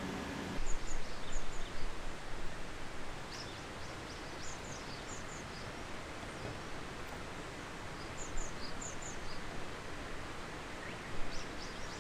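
Outdoor ambience: a steady rushing noise, uneven for the first couple of seconds, with small birds giving short high chirps, often two or three at a time.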